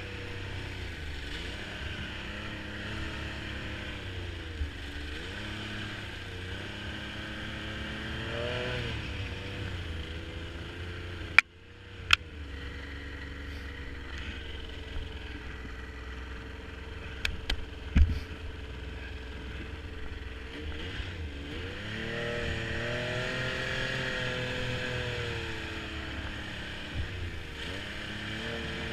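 Snowmobile engine running, its pitch rising and falling as the throttle is opened and eased. A couple of sharp knocks come about eleven and twelve seconds in, and another about eighteen seconds in.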